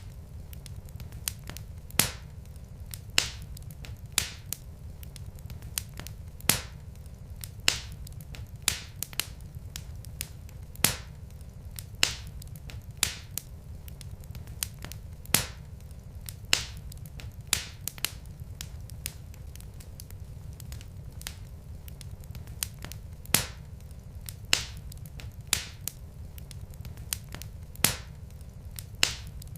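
Wood fire burning in a fireplace: irregular sharp crackles and pops from the burning logs, about one a second, over a steady low rumble.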